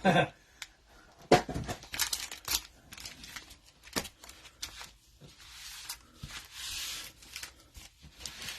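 Foil wrapper of a trading-card pack being torn open and crinkled, with scattered sharp clicks of handling and a longer tear about two-thirds of the way through.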